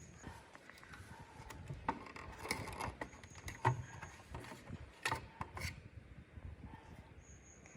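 Scattered clicks and light knocks of small hard parts being handled and set down, with some rubbing between them. The strongest knocks come a little past the middle.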